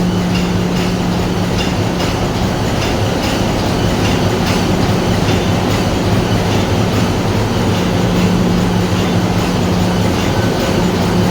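Hyundai-built MAN B&W G80ME two-stroke low-speed marine diesel main engine running steadily at 55 rpm: a loud, even drone with a deep hum and faint regular ticking of the running gear.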